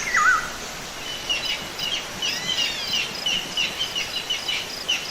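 Birds singing in a nature soundscape: a wavering whistle near the start, then many quick, repeated chirps and a few gliding notes, over a steady background hiss.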